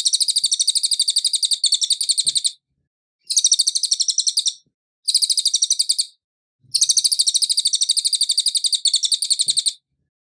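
Cililin singing clear, high, rapid trilled phrases: four bursts of about one to three seconds each, separated by short pauses, with the last one the longest.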